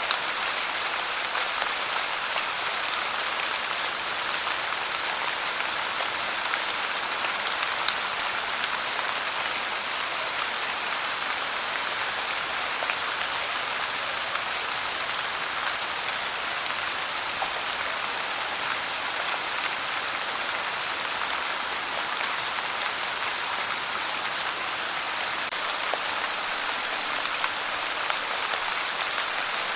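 Steady pouring rain: an even hiss with fine drop patter and faint ticks of drops hitting a surface.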